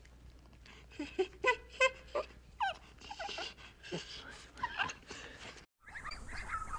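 A canine whimpering and yipping: a string of short, high whines, many rising in pitch, several a second. The calls stop abruptly near the end.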